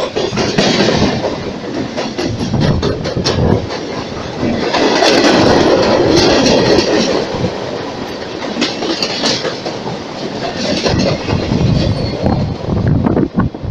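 Norfolk Southern freight train passing close at track side: the steel wheels of its locomotives, hopper cars and flatcars clatter in a rapid run of clicks over the rail joints, over a heavy steady rumble. It is loud throughout and loudest about halfway through.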